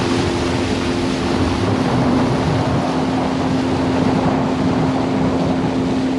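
Boat motor running at a steady pitch, with a steady rush of wind and water over it.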